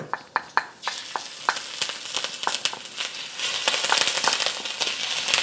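Ginger and garlic sizzling in olive oil in a wok, with a utensil clicking against the pan as they are stirred. The sizzle grows louder and fuller about three seconds in.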